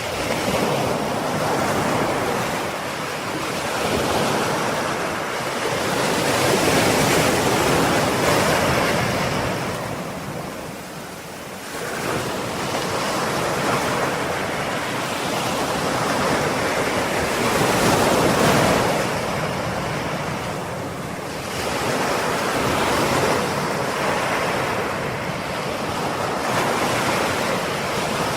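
Ocean waves breaking and washing up the shore, swelling and ebbing in slow surges, with a quieter lull about eleven seconds in.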